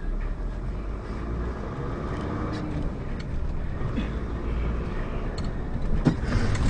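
Car engine and road noise heard through a dashcam: a steady low rumble with faint clicks, growing slightly louder near the end.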